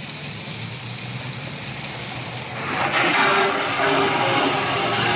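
Steady hissing noise that grows louder about halfway through.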